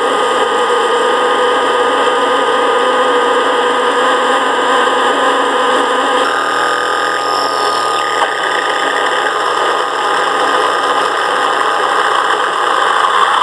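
Live electronic noise music: a loud, dense wall of hiss and hum with a few held tones, its texture shifting about six seconds in.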